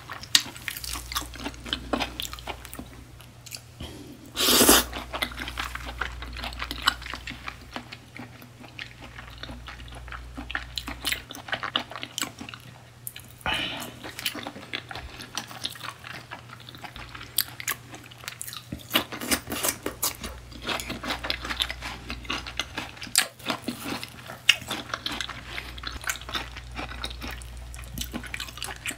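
Close-miked wet chewing and mouth smacking of raw beef tartare (yukhoe), many small sticky clicks, with one louder burst about four and a half seconds in. A steady low hum lies underneath.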